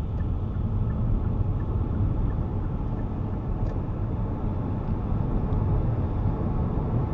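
Car driving, with steady engine and road noise heard from inside the cabin; it grows a little louder in the first second as the car pulls away. Faint ticks come about every 0.7 s for the first few seconds.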